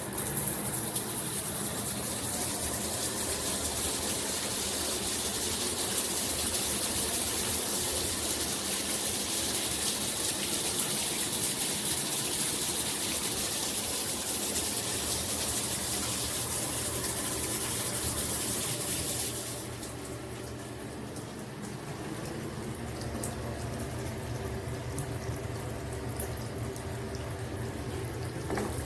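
Water spraying steadily from a Hibbent rainfall and handheld shower head combo, a loud even hiss that suddenly drops to a quieter, duller spray about two-thirds of the way through.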